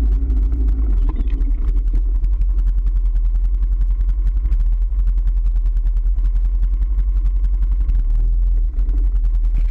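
A vehicle's engine running steadily while riding.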